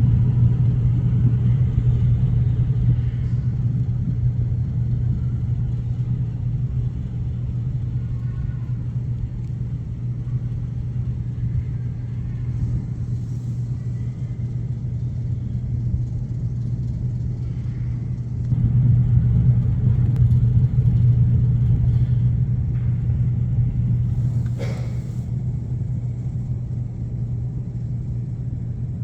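Steady low rumble of a moving road vehicle, growing louder for a few seconds past the middle, with one brief sharp knock near the end.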